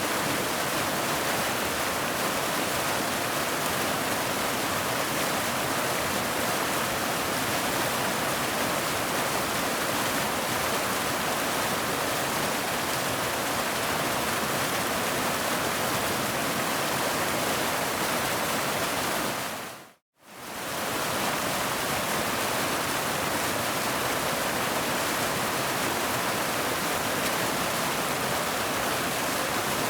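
Waterfall rushing steadily, an even roar of falling water. About twenty seconds in it fades to silence for a moment and comes straight back.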